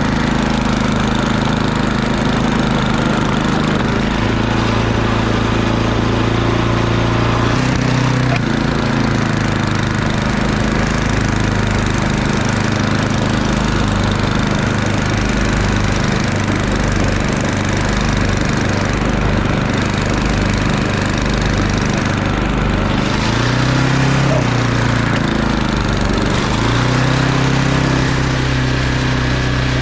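Murray Ultra 8/27 snowblower's 8 hp engine running steadily while clearing snow, its note shifting a few times as the load changes.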